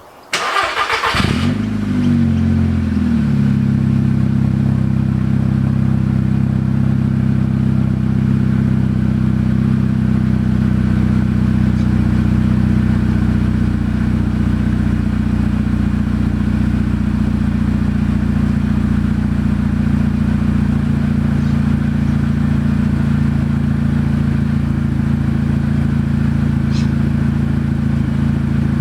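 Volkswagen Golf Mk6 R's turbocharged 2.0-litre four-cylinder starting from cold: a brief crank, the engine catches with a rev flare that falls away within a couple of seconds, then settles into a steady, even cold idle.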